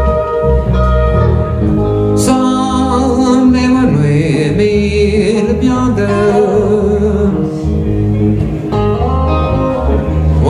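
Live country trio playing an instrumental break in a slow ballad: a lead guitar melody with wavering pitch over guitar and a steady bass line.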